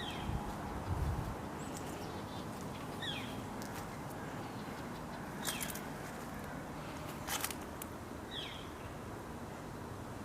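A bird repeating a short, downward-sliding call about every two to three seconds, with a couple of sharp clicks in the middle and low rumbles early on.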